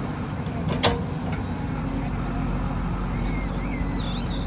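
A JCB 3DX backhoe loader's diesel engine runs steadily, with one sharp metallic clank a little under a second in. High twittering chirps come in over the engine about three seconds in.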